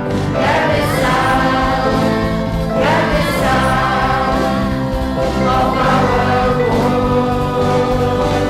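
A choir singing a song over instrumental accompaniment, with new sung phrases coming in about half a second and about three seconds in.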